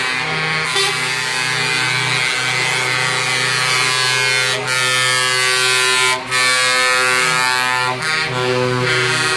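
Several truck air horns blowing together in a loud, sustained chord, breaking off briefly a few times and sounding again.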